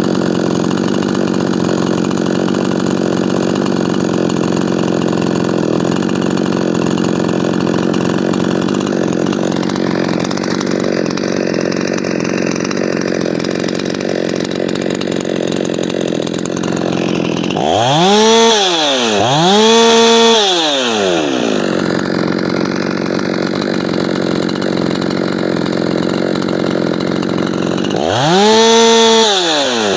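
Ported Efco 165 two-stroke chainsaw running at full throttle in a cut, its engine note held steady under load. About eighteen and twenty seconds in, and again near the end, the engine note sweeps up and falls back.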